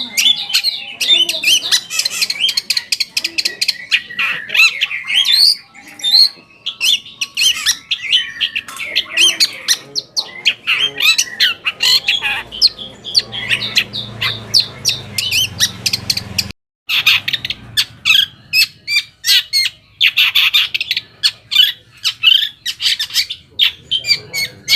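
Long-tailed shrike (cendet) singing a fast, scratchy chatter of rapid notes and harsh squawks, with no pause, cutting out for an instant about two-thirds of the way through.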